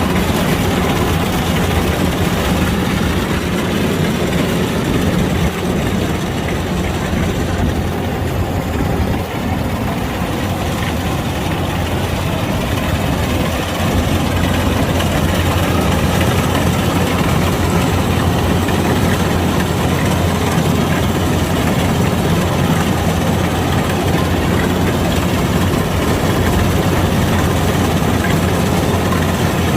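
Kubota DC-105X combine harvester's diesel engine running steadily with a deep, constant hum, easing off slightly about a third of the way in and picking up again near the middle.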